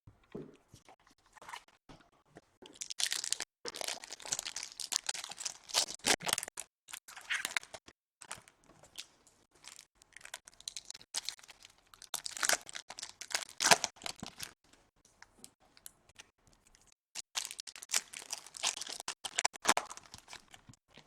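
Foil trading-card pack wrappers being torn open and crinkled, in three spells of tearing and crackling with scattered small clicks between.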